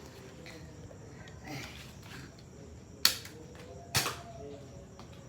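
Two sharp shots from a Nerf blaster firing foam darts, about a second apart, starting about three seconds in.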